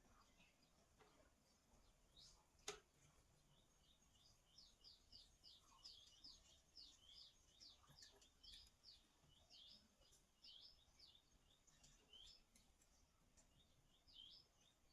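Faint background bird chirping: a rapid string of short, high chirps that starts about four seconds in, with a single sharp click a little before.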